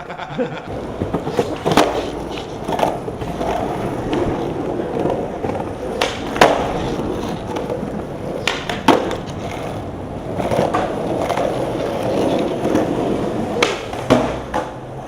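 Skateboard wheels rolling on hard pavement, with sharp clacks of the board hitting the ground several times, some in quick pairs like a pop and a landing. The loudest clack comes about six seconds in.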